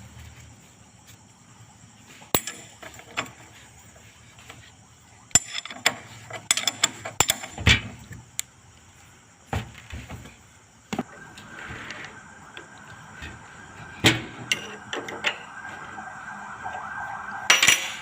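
Scattered clinks and knocks of metal tools and parts being handled, with a steady hiss coming in about eleven seconds in.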